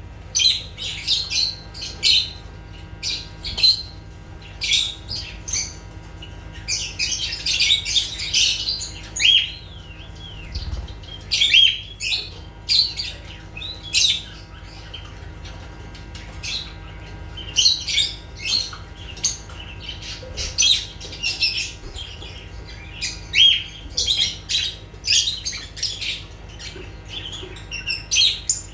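Lovebirds calling: rapid, shrill chirps and squawks in clusters, several birds at once, with short pauses between bouts.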